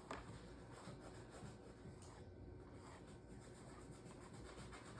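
Near silence with the faint, scratchy rubbing of a paintbrush stroking across a canvas, and a small tap right at the start.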